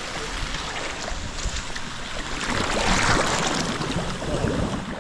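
Water splashing and sloshing in a hot spring pool, swelling to its loudest about three seconds in.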